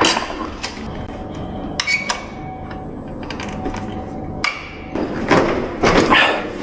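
A series of sharp knocks and metallic clinks from a door and its smart lock hardware being worked by hand.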